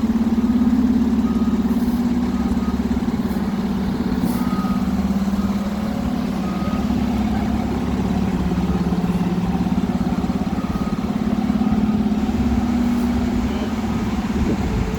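Fire engine's diesel running steadily as it backs up, its reversing alarm beeping roughly once a second over the engine drone.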